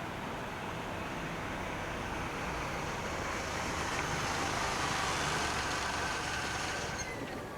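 A vehicle passing close by: its noise builds to a peak and then eases, with a falling tone near the end as it goes past.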